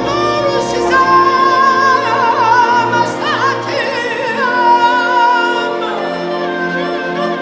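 Mugham singing: a male voice holding long notes broken by quick trilled ornaments, over sustained orchestral string chords.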